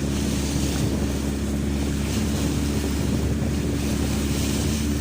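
A boat's engine running steadily, a constant low hum, under a wash of wind and water noise.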